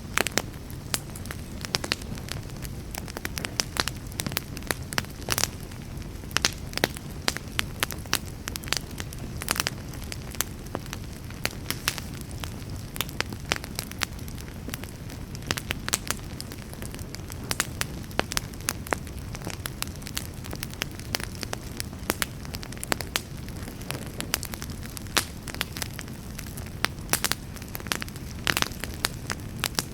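A wood fire burning in a fireplace: a steady low rumble of flames with frequent sharp, irregular crackles and pops.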